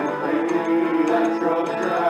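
Acoustic trio of guitar, bass and harmonica playing country music, with the harmonica holding one long reedy note over the strummed guitar.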